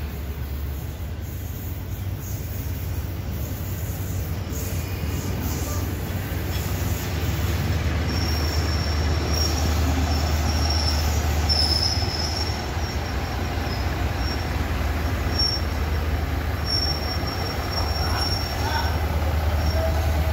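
Diesel train running, with a steady low drone that grows louder over the first several seconds. From about eight seconds in, a thin high-pitched squeal comes and goes.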